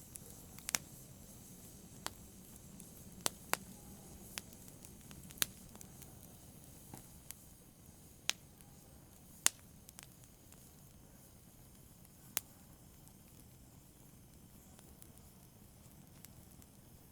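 Small fire in a brazier crackling softly: sharp, irregular pops, about a dozen, thinning out after the first twelve seconds, over a faint low hiss.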